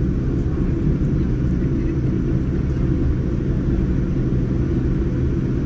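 Steady, loud rumble of a Boeing 787-9's GEnx-1B engines and airflow as heard inside the passenger cabin, with no rise or fall in pitch.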